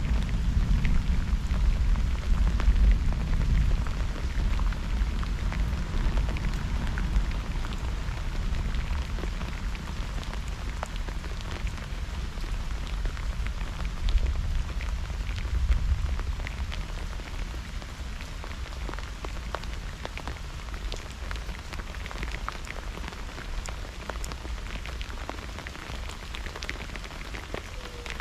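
Steady rain during a thunderstorm, with many fine drop ticks. Under it a deep low rumble is strong at first, swells again about halfway through, then fades away.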